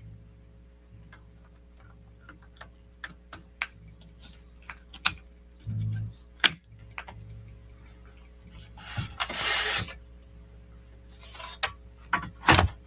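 Small clicks and taps as new RAM modules are handled and fitted into a 2010 MacBook Pro's memory slots, with a short scraping slide about nine seconds in and a sharper click near the end, over a steady low hum.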